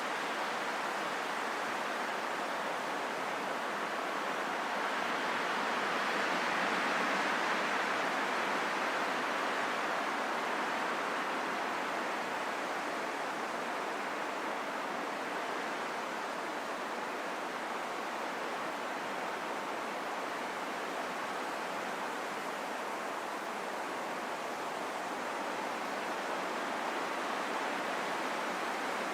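Wind blowing as a steady rushing hiss, swelling slightly about six to ten seconds in and easing off again.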